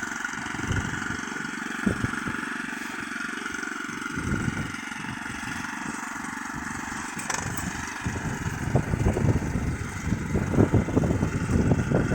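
Neva MB23 walk-behind tractor's engine running steadily, growing louder and rougher from about eight seconds in.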